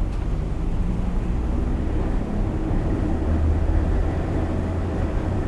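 Electric streetcar running along its track: a steady low rumble of wheels on rails with a low motor hum.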